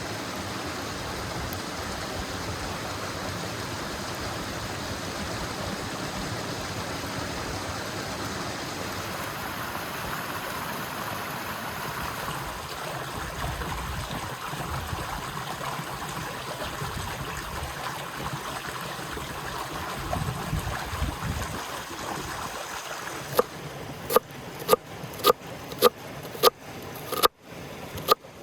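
Steady rushing of river water. Near the end, a run of sharp, evenly spaced knocks, about one and a half a second, comes in over it.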